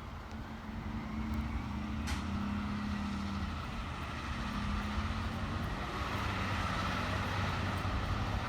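Fire truck engine running with a steady low hum, getting gradually louder toward the end, with one sharp click about two seconds in.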